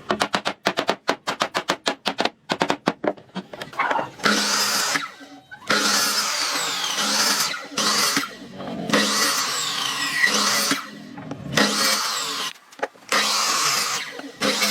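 A rapid string of sharp clattering knocks for about three seconds, then a power tool working wood in repeated bursts of a second or so, its motor whining up and down in pitch.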